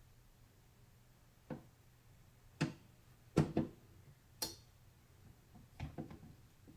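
Irregular sharp clicks and taps of computer parts and tools being handled during a PC build, one with a brief high ring, followed by a quick run of small clicks near the end.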